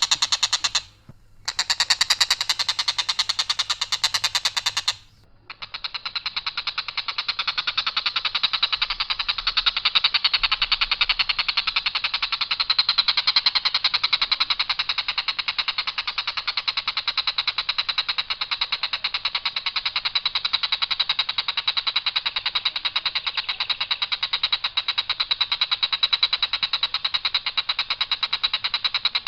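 Tengkek buto kingfisher giving its long, harsh, rattling call in one flat line without trills or turns: a very fast, even run of rough notes. It breaks off briefly about a second in and again about five seconds in, then runs on unbroken.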